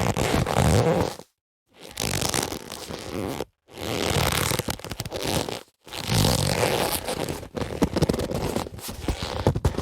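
Boxing gloves being handled: leather rubbing, scraping and creaking in four separate takes of one to four seconds, with short silent gaps between them and a few sharp clicks in the last, longest take.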